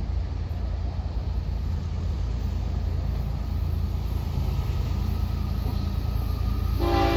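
Low, steady rumble of an approaching Florida East Coast Railway freight train led by diesel locomotives, slowly growing louder; about half a second before the end the lead locomotive's air horn starts to sound, a chord of several notes.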